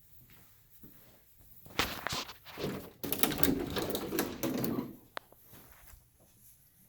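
A closet door being worked open: a rattling clatter of quick knocks and clicks that starts about two seconds in and lasts around three seconds, ending with a single click.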